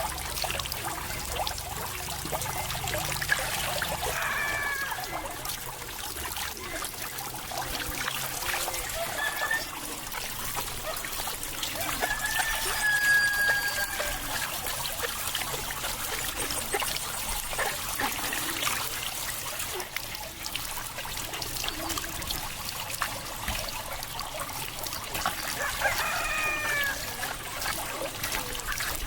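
Steady trickle of running water, with a few short animal calls, typical of farmyard fowl, about four seconds in, near the middle and near the end.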